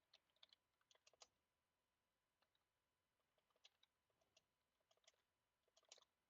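Faint computer keyboard typing: irregular key clicks in short runs, a quick cluster in the first second and a sparser run from about two and a half seconds in.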